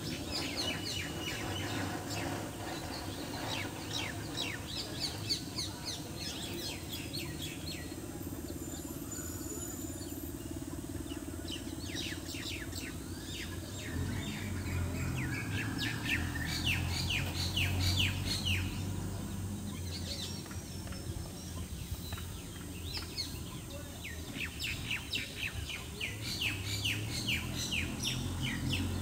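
Small birds chirping in quick runs of short, high calls, again and again, over a low steady background rumble that grows louder about halfway through.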